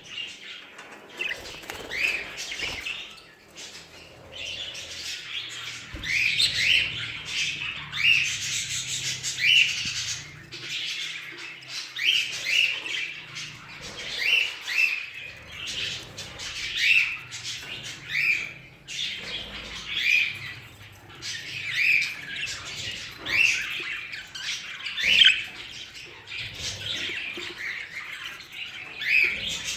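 A group of budgerigars chattering, with short sharp squawks and chirps about once a second over a steady background of warbling.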